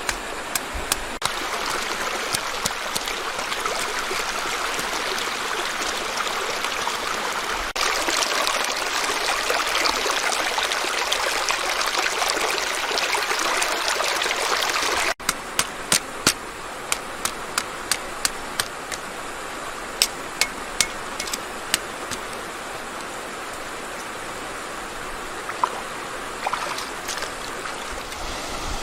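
Water running in a stream, a steady rushing hiss that shifts in level a few times. In the middle stretch a series of sharp, short clicks or knocks sounds over it, about a dozen over several seconds.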